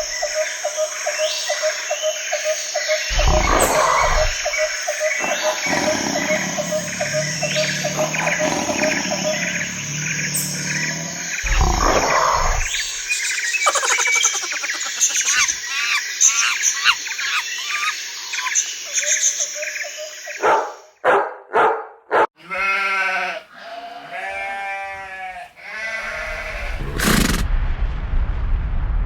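A string of different animal calls with several loud ones a few seconds apart, pitched calls that rise and fall near the end, and then a low rumble.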